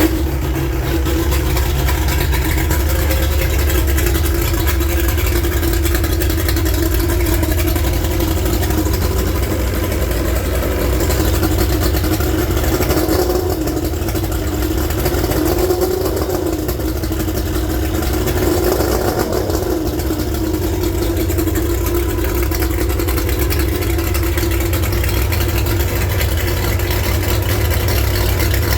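Mercury 150 XR6 two-stroke V6 outboard running steadily after a clogged oil-tank check valve was replaced, with small rises and falls in speed around the middle.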